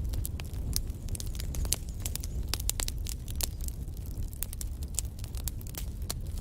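Wood fire burning in a fireplace: a dense run of sharp, irregular crackles and pops from the burning logs over a steady low rumble of the flames.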